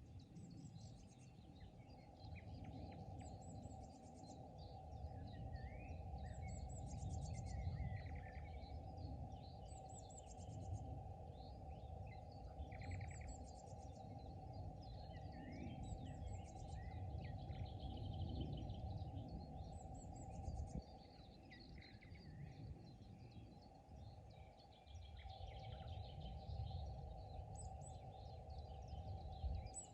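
Several songbirds chirping and singing in a pond-side spring chorus, with a short high trill repeating every few seconds. Beneath them runs a constant low, uneven rumble.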